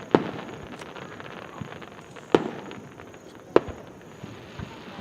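Aerial fireworks shells bursting: three loud booms with echoing tails, one right at the start and two more a little over a second apart in the middle, with light crackling between them.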